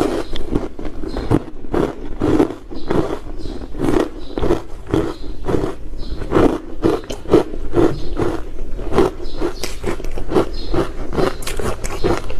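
Ice being bitten and chewed close to the microphone: a rapid, uneven run of crisp crunches and cracks, several a second, as the teeth break up soft, crunchy ice.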